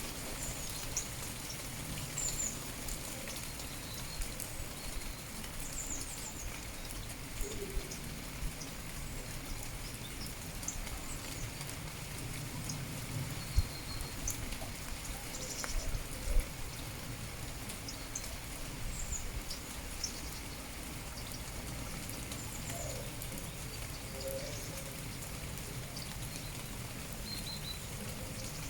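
Steady rain falling, with scattered drips and sharp taps, the loudest a little past the middle. Short high bird chirps come now and then throughout.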